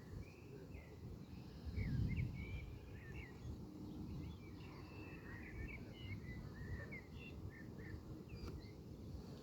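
Birds chirping in quick, short calls, over a low rumble that swells briefly about two seconds in.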